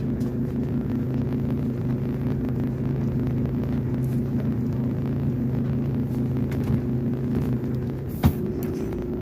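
Clothes dryer running with a steady low drone made up of several held tones. About eight seconds in comes one sharp knock, after which the lowest part of the drone drops away.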